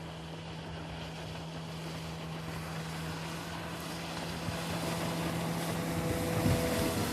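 Sea Pro 9.9 outboard motor running at a steady speed under a rushing noise of wind and water, the whole sound slowly growing louder. The engine note shifts near the end.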